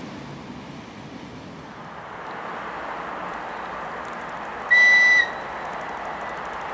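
Electric locomotive's high-pitched whistle giving one short blast of about half a second, a friendly greeting signal from the driver, over the rising noise of the approaching train.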